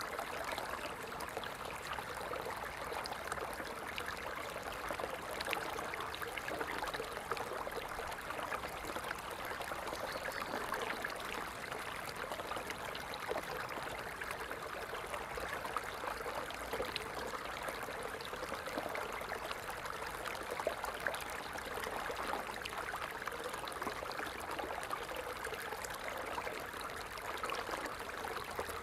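Water falling and running steadily, a continuous splashing trickle.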